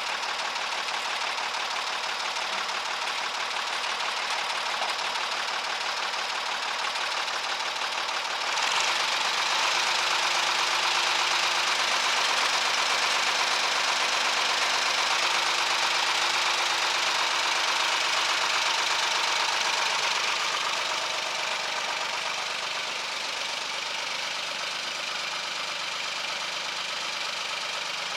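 Carraro 6000 tractor's air-cooled diesel engine running with a steady diesel clatter. It gets louder and runs up about a third of the way in, then drops back about two-thirds through. The engine is running on its rebuilt oil pump, with oil pressure up.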